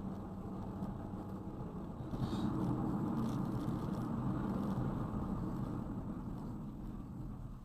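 Car driving: steady engine and road noise that gets louder about two seconds in.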